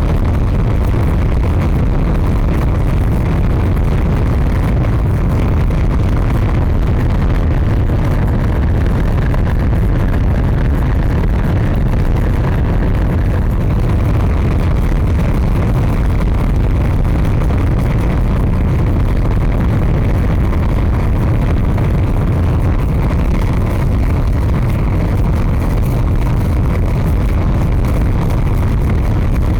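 A large fire burning with a steady, deep rumble and no distinct crackles or pops.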